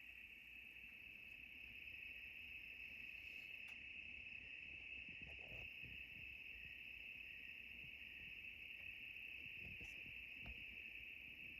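Crickets chirping in a faint, steady night chorus.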